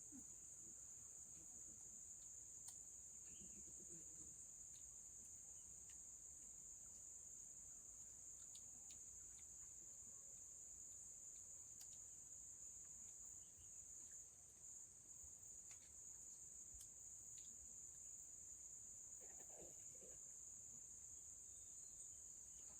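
Faint, steady high-pitched chirring of crickets, with a few faint clicks and low murmurs.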